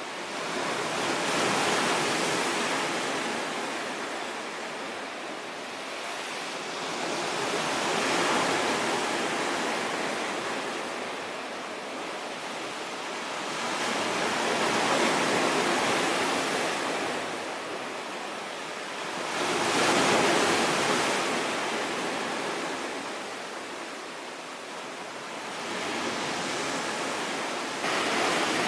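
Storm surf on a sea shore: waves breaking one after another, each swelling into a loud rushing wash and ebbing away, about every six seconds.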